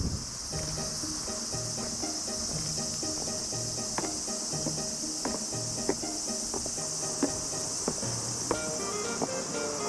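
Insects trilling in a steady, high-pitched chorus, with quiet background music and a few sharp ticks.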